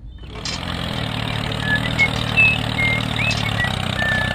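Small engine running steadily at idle, with a few short, high chirps over it.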